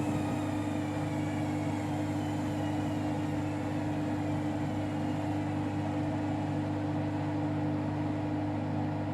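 Washing machine running with a steady hum, its motor whine falling in pitch over the first few seconds as the drum slows down.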